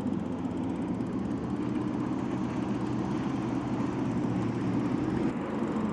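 Steady low rumble and hum of riding noise from a moving bicycle, with no break or change.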